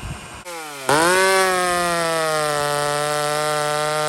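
Hot-rodded McCulloch 850 two-stroke chainsaw held at high, steady revs. It comes in about half a second in, gets louder just before a second in, and its pitch sags slightly before holding steady.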